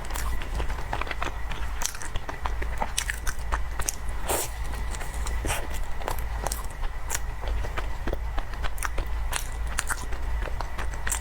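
Close-miked mouth sounds of someone eating cake: irregular chewing clicks and smacks, several a second, over a steady low hum.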